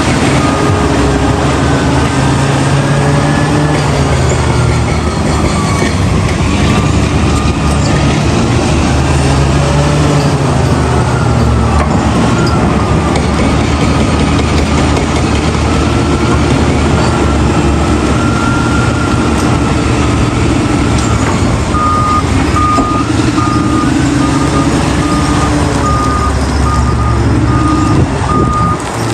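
Heavy diesel earthmoving machinery working, the engine pitch rising and falling as it revs under load. Near the end a reversing alarm starts, beeping about twice a second.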